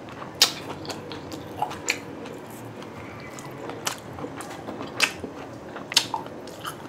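Close-up chewing of a mouthful of grilled pork barbecue, with irregular sharp mouth clicks and smacks, about six of them spread through the chewing.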